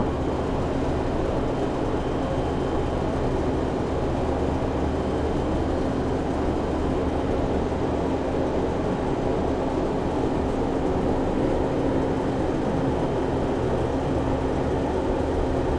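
Commercial reach-in refrigerator's condensing unit, compressor and fan, running with a steady, even hum, cycled on by its low-pressure switch.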